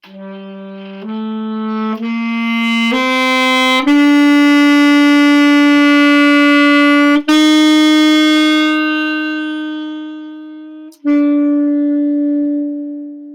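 Saxophone playing a slow phrase: four short notes stepping upward and getting louder, then long held notes that gradually fade away, a crescendo followed by a diminuendo.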